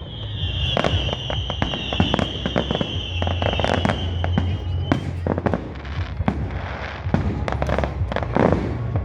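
Fireworks going off: a rapid run of sharp bangs and crackling pops, with a high, slightly falling whistle from a whistling firework held for about the first five seconds.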